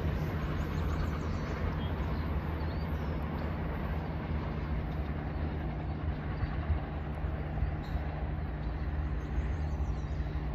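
NCTD Coaster diesel commuter train running away down the track: a steady low engine rumble with a haze of rail and wheel noise above it.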